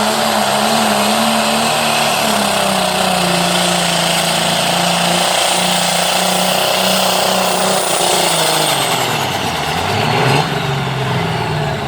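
Turbocharged diesel engine of a pulling tractor running hard under load, with a high turbo whine over it. From about eight and a half seconds in, the engine and turbo pitch fall away as the tractor slows down.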